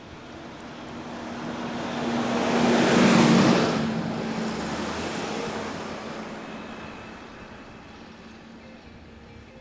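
A road vehicle passing by: its noise swells to a peak about three seconds in, then slowly fades away.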